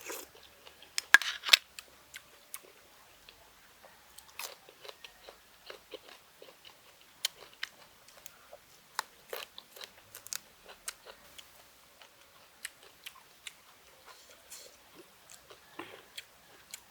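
A person eating close to the microphone: a loud crunchy bite about a second in, then steady chewing with many short, irregular clicks.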